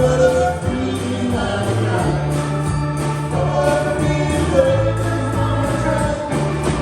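A band playing a song with singing: held bass notes under a voice, with a regular drum beat.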